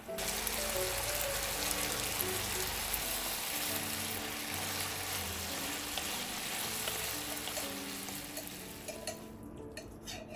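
Food sizzling in a frying pan: a dense, steady sizzle that starts suddenly and dies away near the end, with a few sharp clicks as it fades. Soft background music plays underneath.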